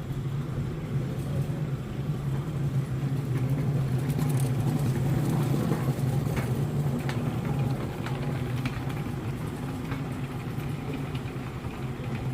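Steady low hum of a vehicle running, with a few faint clicks over it.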